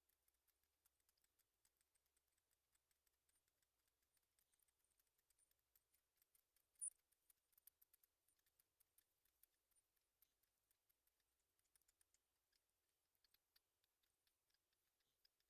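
Near silence with faint, irregular high-pitched ticks and clicks scattered throughout, one a little louder about seven seconds in.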